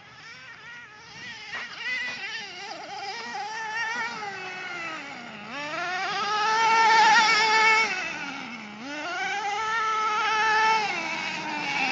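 RC truck's motor revving up and down, a high whine that wavers and climbs at first, then twice drops low and climbs back to a high, held pitch. It is loudest about halfway through.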